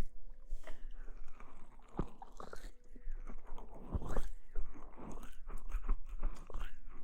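Close-miked ASMR rustling and crackling: irregular soft crinkly clicks and short scrapes, some louder pops around two and four seconds in.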